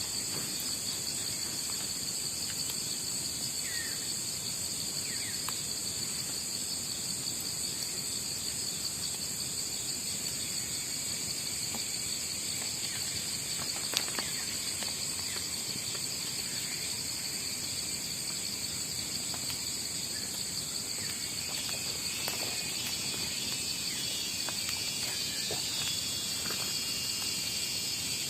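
A steady, high-pitched chorus of crickets and other night insects, with a single sharp click about halfway through.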